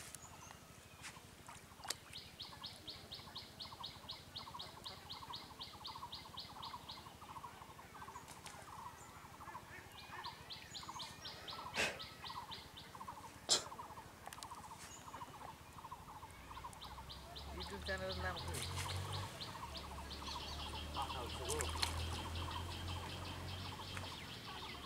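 Background birds calling: a short note repeated about three times a second throughout, with several bursts of rapid high trills a few seconds long. There are a few sharp clicks, and a low rumble comes in about two-thirds of the way through.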